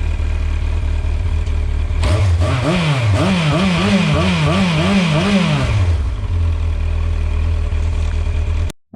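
1998 Yamaha R1's inline-four engine through a GPR Furore Nero slip-on exhaust, idling, then blipped about six times in quick succession, roughly two revs a second, before settling back to idle. The sound cuts off abruptly just before the end.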